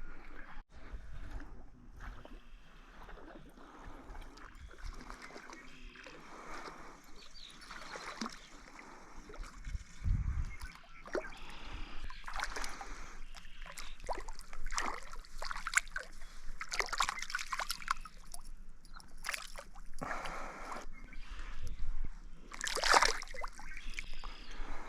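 Irregular sloshing and splashing of lake water as a caught rainbow trout is handled at the water's edge. The loudest splash comes near the end.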